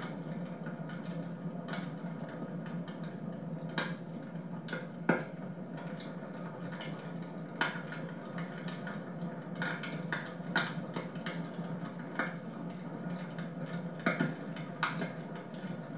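Wood fire burning in a fireplace, crackling with irregular sharp pops over a steady low rush of the flames; the loudest pop comes about five seconds in.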